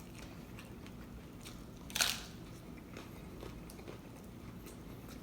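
One loud, sharp crunch of a bite into a hard-shell taco about two seconds in, with faint chewing clicks around it.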